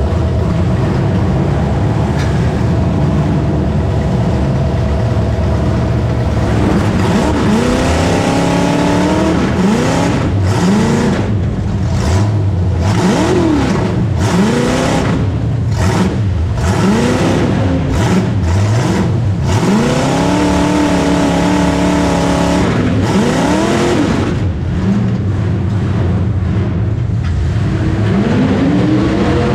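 Demolition derby car's engine, heard from inside the stripped cab, running steadily at first and then revving up and back down over and over in short bursts.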